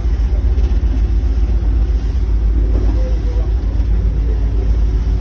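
Boat engine running steadily, a loud low rumble with no change.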